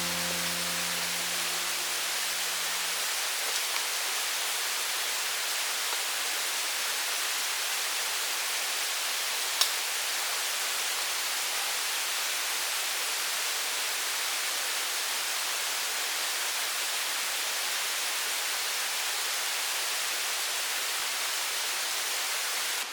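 Steady rush of a mountain stream, an even hiss-like flow of water. The last notes of background music die away in the first few seconds, and a single sharp click sounds about ten seconds in.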